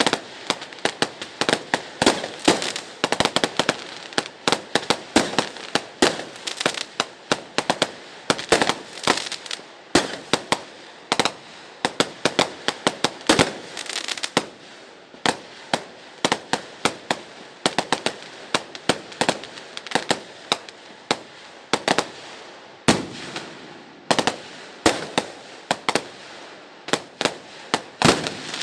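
Fireworks going off on all sides: a dense, irregular barrage of sharp bangs and cracks, several a second, over a steady background crackle and rumble of more distant fireworks.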